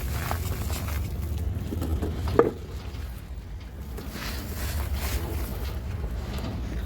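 A few scattered crunches of a dry, crumbling floor surface, with one sharp crack about two and a half seconds in, over a steady low rumble.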